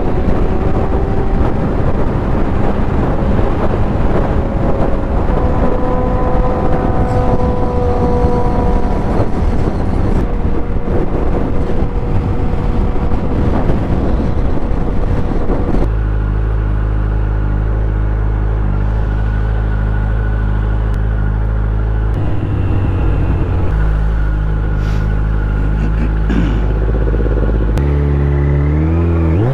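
Motorcycle engine heard from the rider's helmet camera, first under way with heavy wind rush on the microphone and a shifting engine note. About halfway through the wind stops and the engine settles to a steady idle, then revs up near the end.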